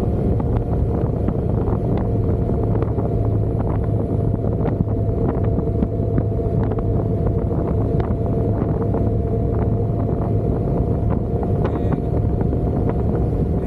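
Motorcycle engine running at a steady cruising speed, with wind buffeting and crackling on the microphone.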